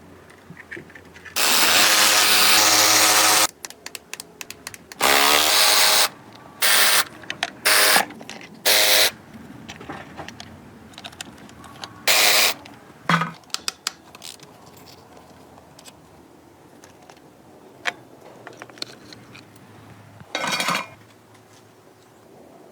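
Power tool run in a series of short bursts: a steady two-second run about a second and a half in, a second run near five seconds, then several quick blips and two more short runs later on, with small clicks and taps between.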